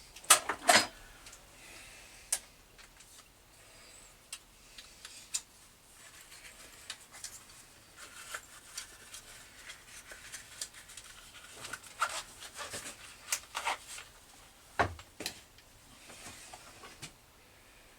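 Scattered light clicks, taps and small knocks of metal parts and hand tools being handled on a workbench, with no machine running.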